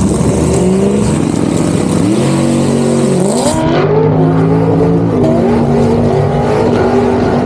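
Car engines accelerating hard, their pitch climbing, dropping back and settling at new levels as the revs change. A high hiss over the top stops suddenly about halfway through.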